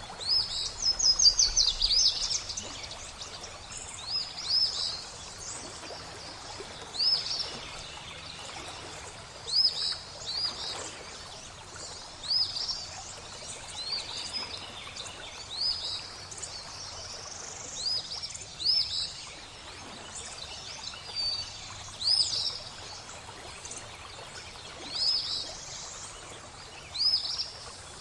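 A small songbird repeats short high chirp phrases every two to three seconds, each made of two or three quick notes, with a rapid flurry of notes near the start. Underneath runs the steady rush of flowing water.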